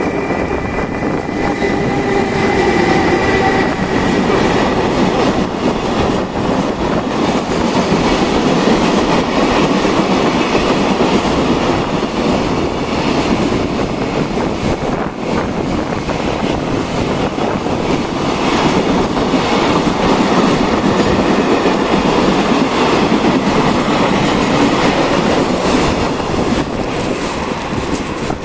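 Electric freight train of container wagons passing close by on the adjacent track: loud, steady rolling noise with the wheels clattering over the rail joints. A whine is heard in the first few seconds as the locomotive goes by.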